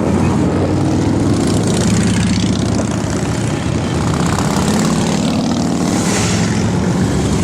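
Motorcycle engines running together in a loud, steady drone with a low throbbing pulse, as a group of bikes rides.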